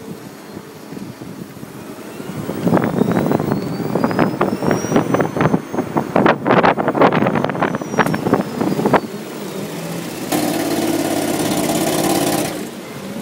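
BMW i3 being driven, with a faint high electric-drive whine that rises and then falls as it speeds up and slows, over an uneven rumble. About ten seconds in, the range extender's small two-cylinder petrol engine runs a steady hum for about two seconds, running the generator, then cuts off suddenly.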